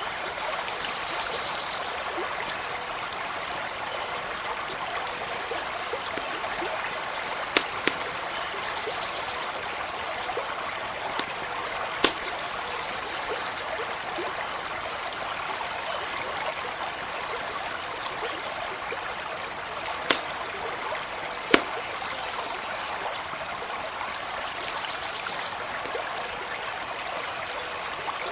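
A stream running steadily over stones, with a campfire giving a handful of sharp pops and cracks over it.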